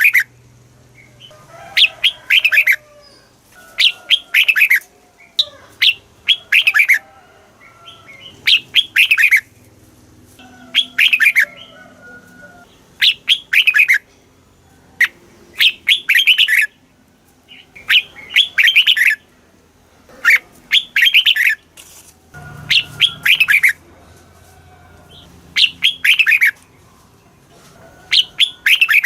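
Red-whiskered bulbul singing: short, loud phrases of quick whistled notes that sweep downward, repeated about every two seconds.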